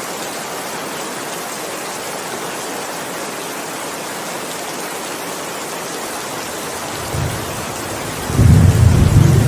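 Steady heavy rain falling. About seven seconds in a low thunder rumble begins, turning loud and rolling near the end.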